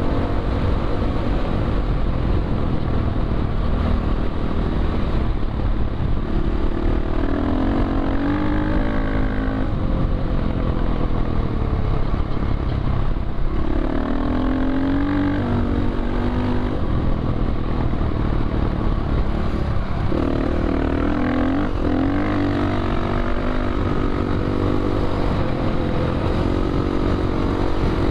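Dirt bike engine running under way, its pitch climbing and dropping several times as the rider accelerates and shifts, over a steady low rumble of wind and riding noise.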